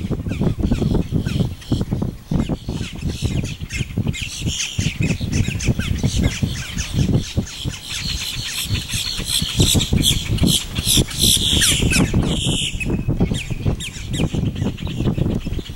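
Wetland birds squawking and chattering, a dense run of harsh calls from about four seconds in until near the end, over a steady low rumble of wind on the microphone.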